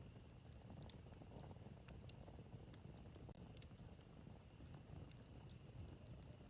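Wood campfire burning faintly, with a low steady rumble and scattered sharp crackles and pops at irregular moments.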